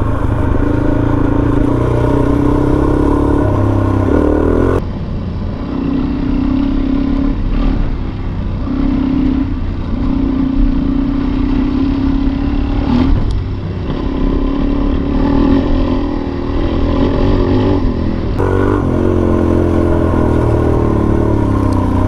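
Suzuki DR-Z400 single-cylinder four-stroke dirt bike engine running under way on a trail, its note rising and falling as the throttle is opened and rolled off, climbing near the end.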